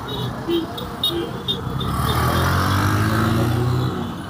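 A motor vehicle passing close by on a street, its engine note rising slightly and then fading, after a few short sharp sounds in the first second and a half.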